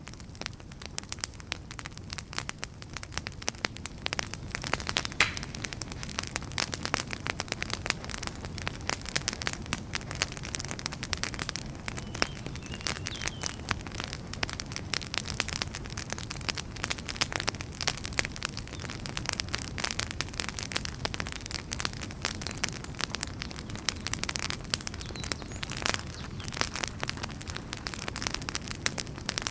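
Wood fire burning with dense, constant crackling over a low, steady rumble of flame, with an occasional louder snap.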